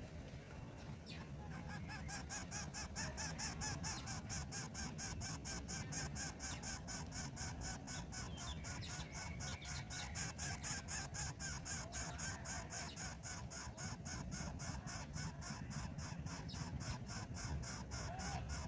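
Rapid, even pulsing animal calls, about four to five a second, starting about two seconds in and keeping on without a break.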